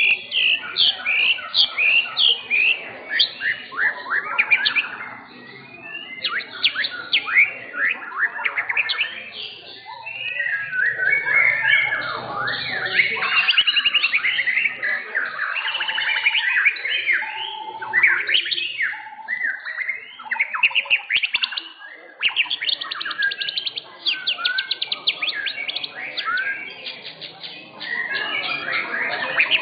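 White-rumped shama (murai batu) singing a long, varied competition song: loud whistled phrases that slide up and down in pitch, broken by fast rattling trills and chattering calls, with hardly a pause.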